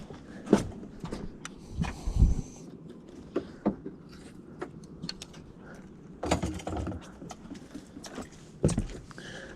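Irregular knocks, clicks and rustling, with louder thumps about half a second in, around two seconds in, between six and seven seconds, and near the end.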